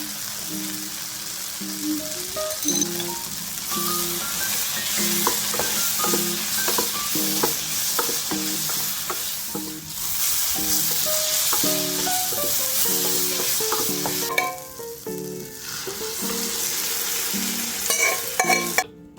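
Food frying in hot oil in a pan, a steady sizzle that dies down briefly about two-thirds of the way through and stops abruptly just before the end. Background music plays along with it.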